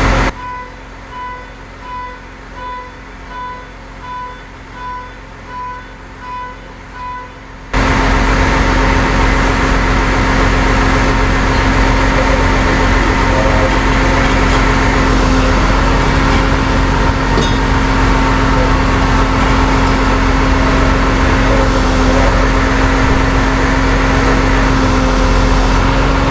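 About ten evenly spaced electronic beeps, like a vehicle's reversing alarm, then a sudden change to a vehicle engine running steadily with a constant low hum.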